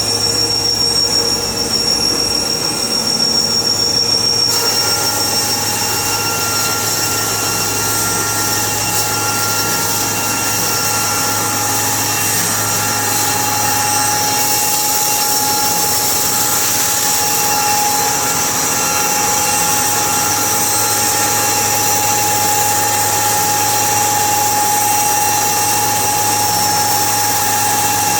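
Machinery running steadily, a high-pitched whine over a hiss; the sound shifts a few seconds in and again about halfway through.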